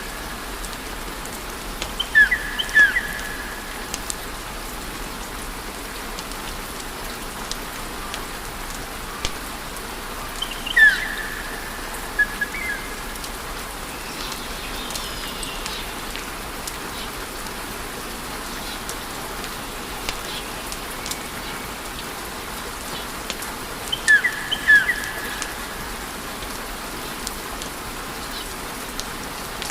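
Wood fire in a fireplace crackling and hissing steadily, with scattered small pops. Short high whistling chirps come through a few times: about two seconds in, around eleven seconds, and in a pair near the end.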